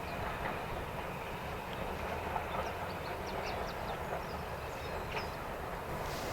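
Steam-hauled train on the move along the line, giving a steady rolling rumble of wheels on track.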